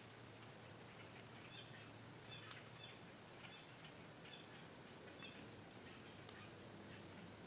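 Quiet woodland ambience with faint, short, high-pitched bird chirps repeating every second or so, and a few soft ticks.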